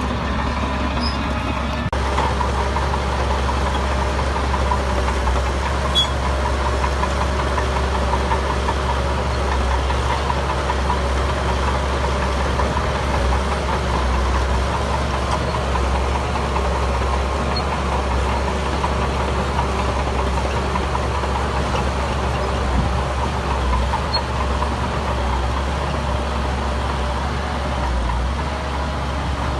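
Heavy diesel earthmoving machinery running steadily: a deep engine drone with a constant higher tone above it.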